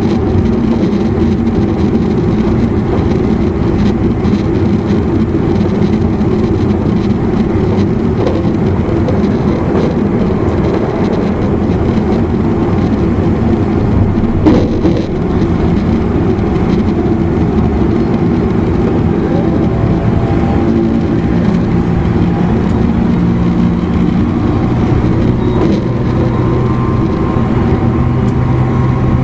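Running noise inside an E259 series Narita Express electric motor car: a steady rumble of wheels on rail mixed with traction-motor tones, which change pitch in the later part. One brief knock about halfway through.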